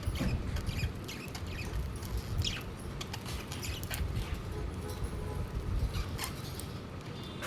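Budgerigars chattering, with short high chirps scattered through over a low rumble.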